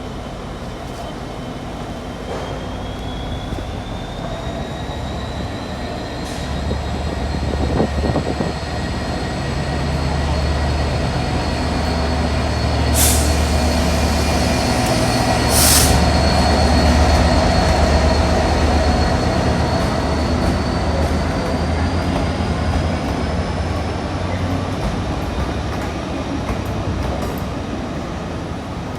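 A train moving through the station. A low rumble builds to its loudest about halfway through and then eases off, under a steady whine that rises in pitch in the first few seconds. There is a click, then two short sharp noises near the loudest point.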